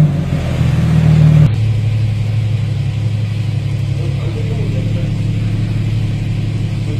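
Porsche 981 Boxster's flat-six engine through an Armytrix valved exhaust, running at a steady note, then about a second and a half in dropping abruptly to a quieter, steady idle.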